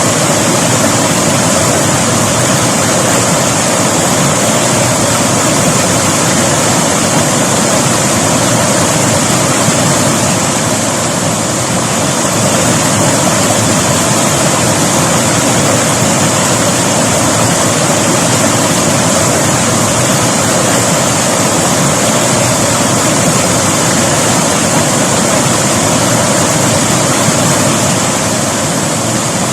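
A river's water rushing and splashing over rocks in a steady, unbroken hiss.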